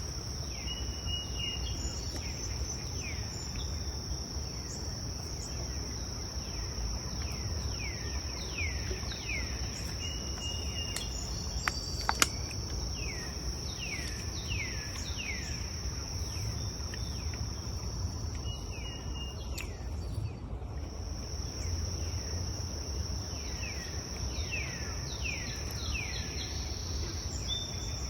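Forest insects shrilling in one steady, high, unbroken tone that stops for about a second near the two-thirds mark, with clusters of short falling chirps repeating beneath it.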